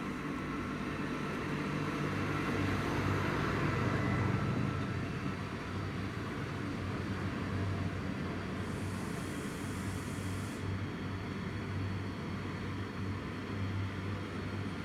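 Steady low engine rumble of a vehicle, swelling between about two and four seconds in, with a brief high hiss around nine to ten seconds.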